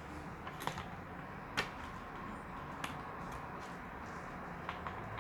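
LEGO plastic pieces clicking and knocking as a model plane's tail section is handled and fitted on: a few sharp clicks about a second apart, then fainter ones.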